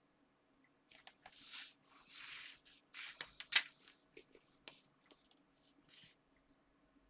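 Small crafting materials being handled at a work table: a run of short dry rustles and scrapes with small sharp clicks, the loudest click about halfway through.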